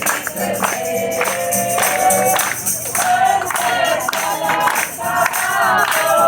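A group of voices singing a Spanish-language hymn together, with a tambourine keeping the beat.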